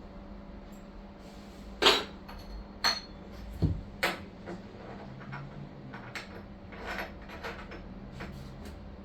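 Metal tools and parts being handled: a few sharp metallic clanks and clinks, loudest about two seconds in, with smaller knocks later, over a steady low hum.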